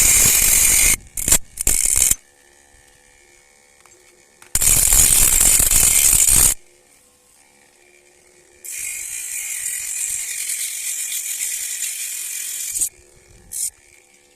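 Homemade angle grinder driven by a 775 DC motor, switched on in several bursts. There are two loud bursts, then a quieter run of about four seconds and a brief burst near the end, with quiet gaps between them.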